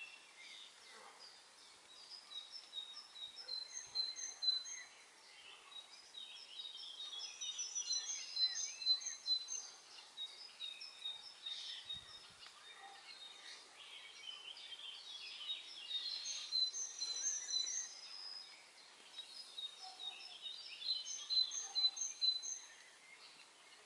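Several songbirds singing at once, a dense chorus of overlapping high chirps and short repeated trilled phrases over a faint background hiss.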